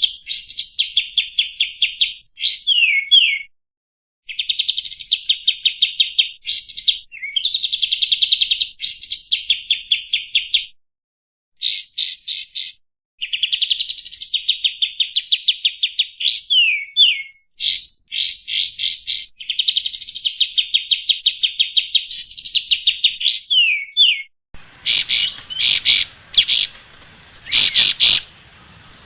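Kapas tembak songbird singing: phrases of fast, rattling note trills with sweeping whistled notes, each a second or two long with short pauses between. Near the end the song turns into a run of separate loud chirps over a background hiss.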